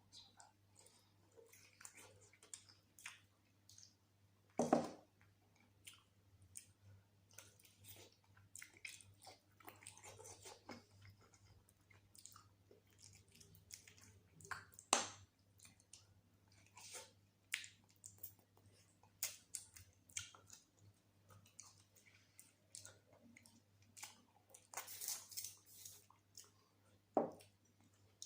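Close-miked eating sounds of mutton curry with rice: wet chewing and lip smacks with many small clicks, and three louder smacks, about five seconds in, halfway through and near the end.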